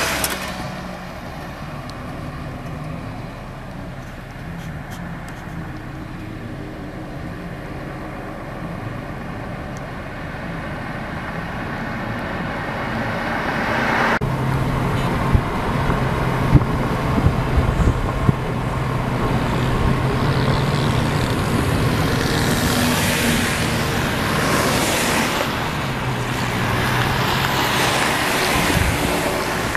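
Car engine running under a haze of tyre and wind noise. It gets louder suddenly about halfway through, with a few knocks shortly after.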